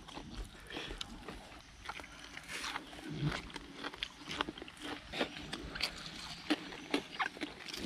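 Close-up eating sounds: chewing, lip smacking and small irregular crunches as two people eat fried frog with fresh vegetables.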